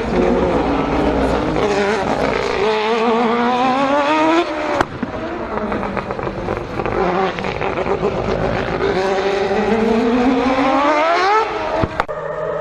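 Race car engine accelerating hard, its pitch climbing and then breaking off sharply with a crack, twice: once about five seconds in and again near the end.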